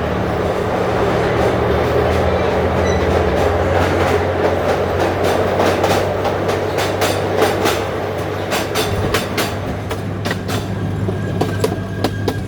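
Zoo ride train running on its track: a steady low rumble with the wheels clicking over the rail joints, the clicks growing more frequent from about halfway in.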